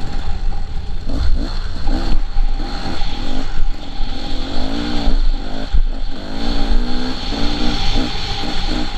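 KTM 300 two-stroke dirt bike engine revving as it is ridden, the pitch climbing and dropping several times, with quick short blips near the end.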